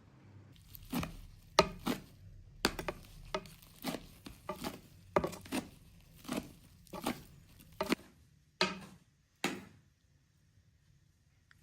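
A series of sharp knocks, irregular at roughly two a second, each with a short ring, stopping about nine and a half seconds in.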